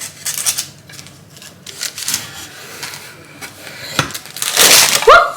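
Scattered light knocks and clatter of metal baking tins being handled, with a louder scraping rush about four and a half seconds in. A brief rising vocal sound comes right at the end.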